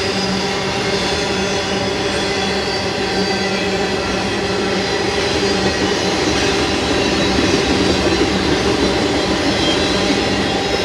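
BNSF intermodal freight train passing, with a loud, steady rumble of wheels on the rails and a low hum running through it.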